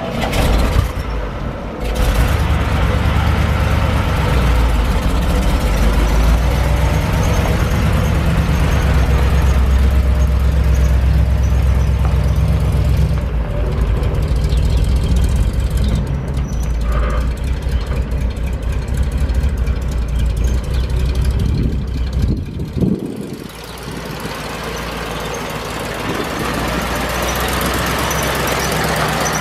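A 1972 Chevrolet C60 fire truck's 366 big-block gas V8 running with a steady low rumble. The sound drops noticeably in level about three-quarters of the way through, then carries on more quietly.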